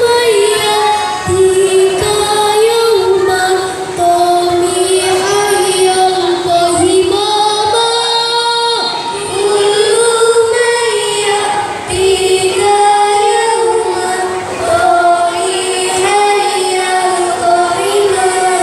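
A girl's voice singing a long, ornamented Islamic devotional melody in banjari style.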